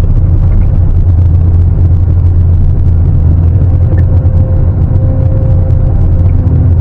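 Sany 750 excavator's diesel engine running steadily with a heavy low drone. A faint steady whine joins in about halfway through.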